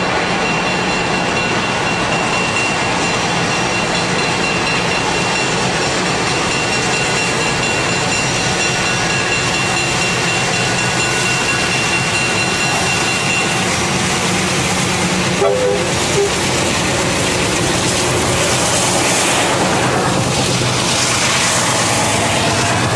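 Diesel freight locomotives rumbling as they approach and pass close by, with a steady horn-like tone through the first half. After the locomotives go by, loaded freight cars roll past, and the wheel noise grows brighter near the end.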